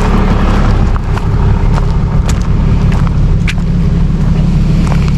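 Tow truck engine idling steadily, with a couple of short sharp clicks.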